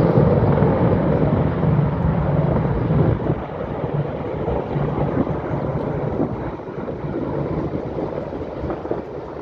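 Military helicopters, AH-64 Apaches and a UH-60 Black Hawk, flying over with a heavy low rotor and engine noise. It is loudest for the first three seconds, then drops off as they pass.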